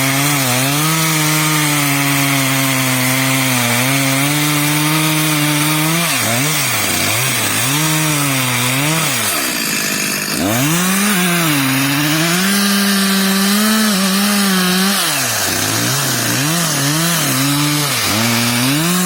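Two-stroke chainsaw cutting into a tree trunk during felling. The engine holds a steady pitch under load, then revs rise and fall quickly several times. The engine drops briefly about ten seconds in, then pulls steadily again before more quick rev changes near the end.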